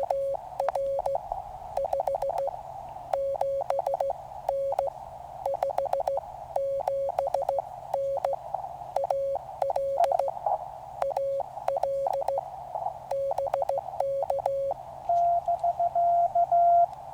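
Morse code (CW) from a QCX mini transceiver: a keyed tone over the receiver's narrow band of hiss, sent in dots and dashes. About fifteen seconds in, a louder, slightly higher-pitched keyed tone takes over.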